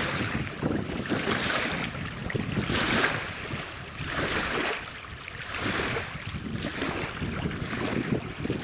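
Gusty wind buffeting the microphone, a rushing noise that swells and eases in gusts every second or two.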